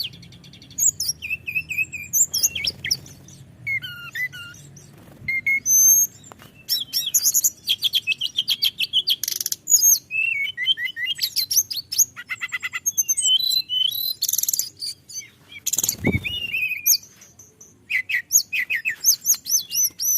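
Hill blue flycatcher singing a long run of rapid trills and clear whistled phrases, with one short dull thump about 16 seconds in.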